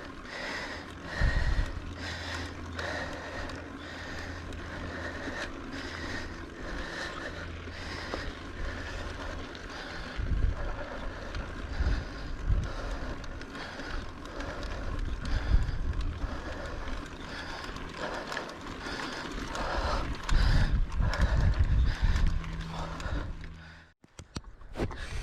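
Mountain bike riding over a dirt trail: wind rushing over the camera microphone, tyres running over dirt and rocks, and the bike knocking and rattling over bumps. The sound cuts out briefly near the end.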